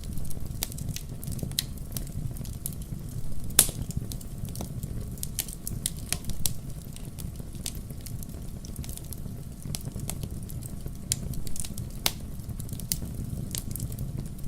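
Fire in a fireplace crackling, irregular sharp pops over a steady low rumble of the flames. The loudest pop comes about three and a half seconds in, and another sharp one near the end.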